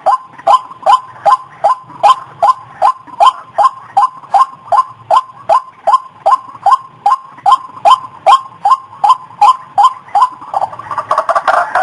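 White-breasted waterhen (ruak-ruak) calling, a loud, monotonous string of short notes repeated about two and a half times a second. Near the end the notes quicken and run together into denser, overlapping calling.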